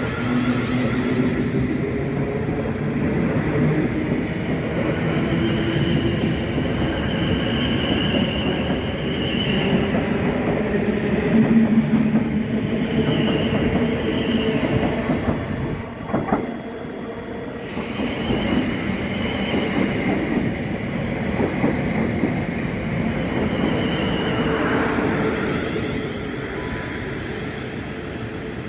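A train running along the line, a steady loud rumble with wavering tones and some wheel squeal, easing off slightly near the end.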